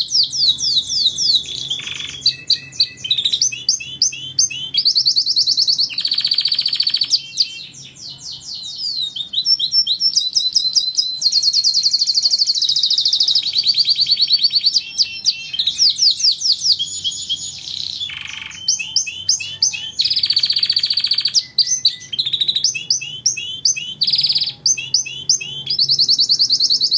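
Domestic canary singing continuously: long, fast trills and rolls of repeated high chirps, changing from one trill to the next every second or two.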